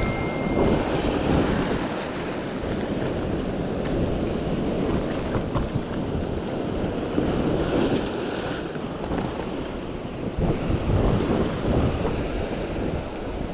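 Sea waves washing in and pulling back, swelling and easing several times, with wind buffeting the microphone.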